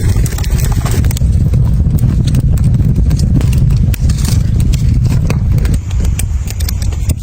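Storm wind blowing with a heavy, steady low rumble, over the frequent sharp crackles and pops of a small wood fire.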